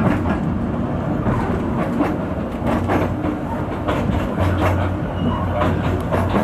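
Ikawa Line narrow-gauge train running on jointed track: wheels clicking and knocking over rail joints over a steady running rumble. A low hum grows stronger about halfway through.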